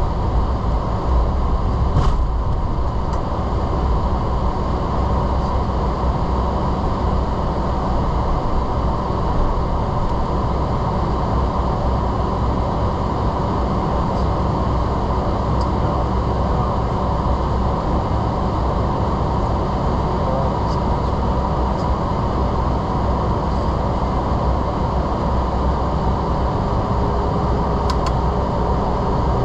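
Steady jet engine and cabin noise inside a Boeing 767-300, an even rumble that holds its level throughout, with a couple of faint clicks about two seconds in and near the end.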